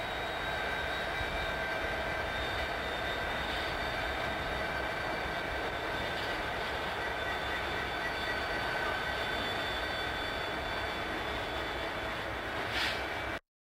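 Diesel locomotives of a Southern Pacific freight train passing at speed, engines running steadily with a steady high whine, the double-stack container cars coming by behind them. A brief hiss flares near the end just before the sound cuts off suddenly.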